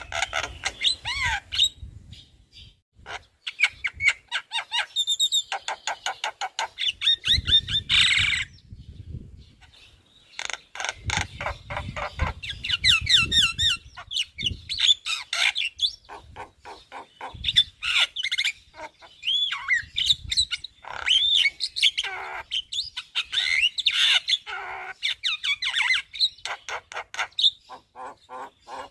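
Javan myna (jalak kebo) in full song: a fast, almost unbroken run of chattering, clicks and varied short whistled phrases, with a brief pause about nine seconds in. It is the bird's long, varied repertoire of filler phrases, including mimicked calls.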